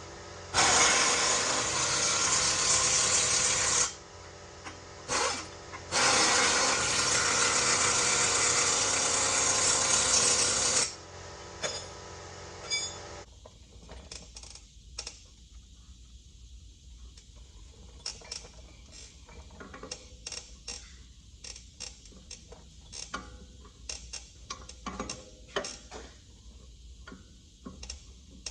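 A pneumatic air tool runs in two long bursts of about three and five seconds, with short blips between them. After that come many irregular sharp clicks of hand tools and metal parts being worked.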